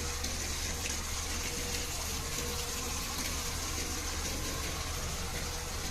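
Isuzu Giga fire engine running with its water pump working and water gushing out in a steady stream, under a low engine hum.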